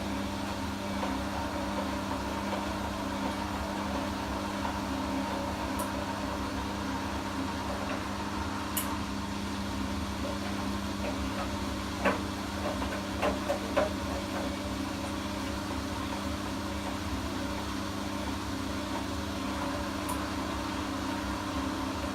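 Siemens washing machine running a spin with only one towel in the drum, the motor and drum humming steadily, with a few sharp knocks about twelve to fourteen seconds in. The motor is sitting on makeshift rubber bushes in place of its disintegrated mounts.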